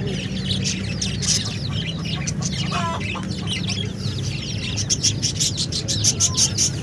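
Many chicks peeping at once, a dense run of short falling cheeps, over a steady low hum, with a quick series of sharp clicks near the end.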